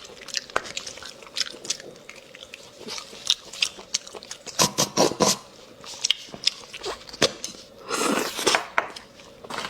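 Close-up mouth sounds of someone sucking marrow out of a bone and chewing: wet lip smacks and clicks throughout, with louder slurps about five seconds in and again near the end.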